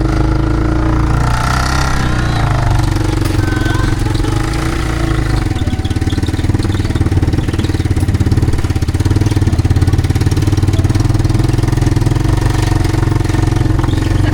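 A motor vehicle's engine running steadily, with a low, even drone throughout and a slight change in its low note about five seconds in.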